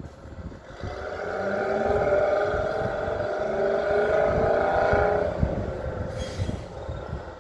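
A heavy engine swells up over a second or two, holds with several steady whining tones for a few seconds, then fades away about six seconds in, over a low uneven rumble.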